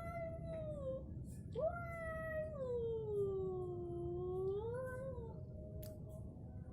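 Domestic cat yowling in a fight standoff: a short yowl, then a long drawn-out one that sinks in pitch and rises again at the end.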